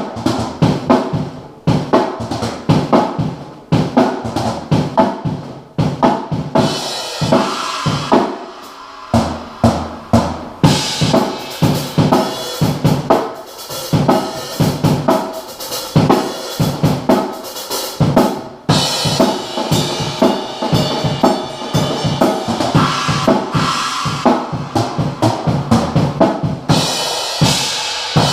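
Drum kit being played: a steady stream of quick snare and bass drum strokes, with long stretches where cymbals ring over the hits.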